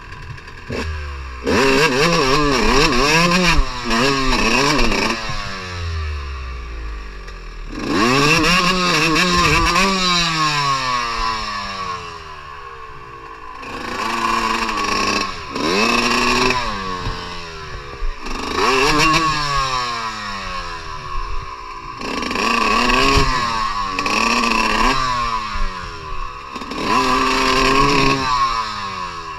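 Motocross dirt bike engine revving up and backing off again and again as it is ridden, the pitch climbing and falling in surges every few seconds.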